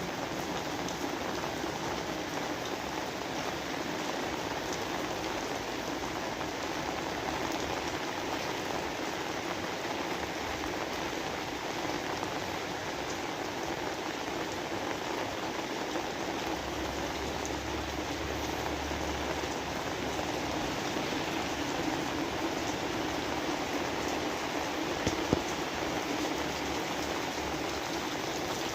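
Steady rain falling, an even hiss of drops, with one brief sharp knock near the end.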